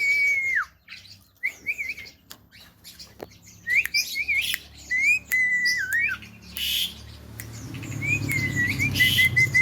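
Javan myna whistling and chirping: clear held and falling whistles, rising chirps, a couple of harsh squawks, and a quick run of short repeated notes near the end.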